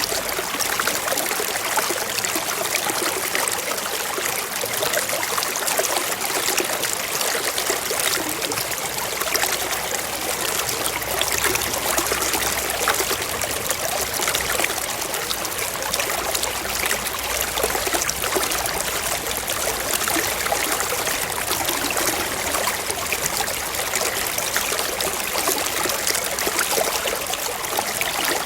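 Forest stream running over rocks, a steady babbling and trickling of water.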